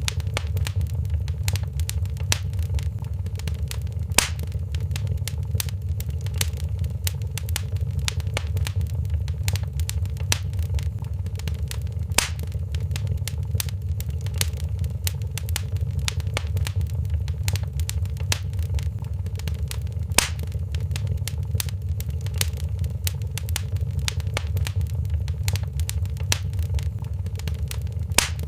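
Wood fire in a fireplace crackling, with many small snaps and a louder pop about every eight seconds over a steady low rumble.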